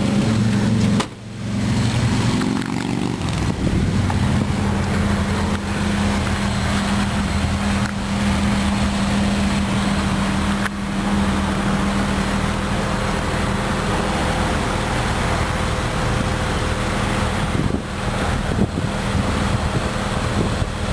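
2004 Jeep Grand Cherokee's 4.0-litre engine idling steadily, a constant low hum, with a brief drop in level about a second in.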